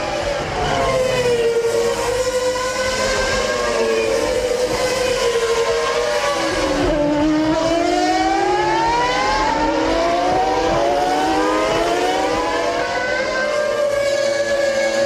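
Several Formula One cars of the 2000 season, with 3.0-litre V10 engines, racing. Their overlapping engine notes rise and fall in pitch as they accelerate, shift gear and brake.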